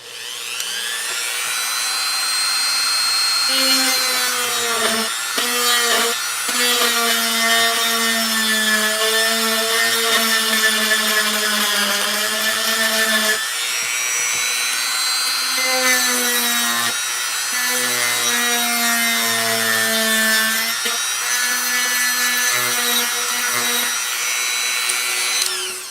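Small electric drill running steadily, drilling holes in scrapbook embellishments. Its whine dips in pitch briefly several times as the bit bites, then stops near the end.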